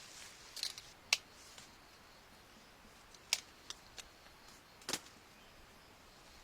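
A handful of short, sharp snips or clicks at irregular intervals, about six in all, over faint background hiss; the loudest come about a second in and near the end.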